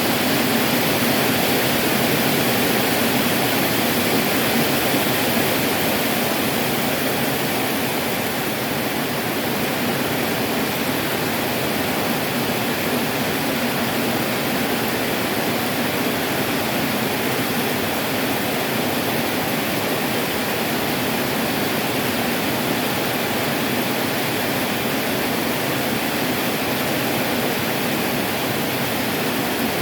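Heavy tropical rain pouring down steadily, a dense even roar of falling water.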